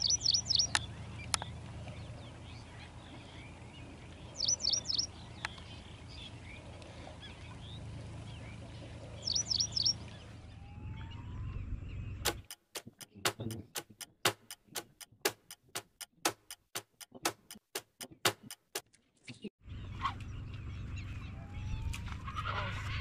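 A bird calls in quick, high three-note bursts about every four to five seconds over a steady low background. About halfway through, a run of sharp, evenly spaced ticks, about three a second, sounds over near silence for some six seconds before the background returns.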